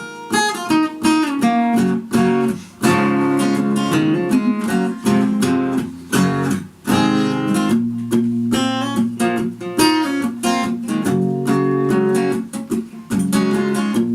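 Handmade acoustic guitar strummed and picked, a steady run of chords struck in quick, regular strokes.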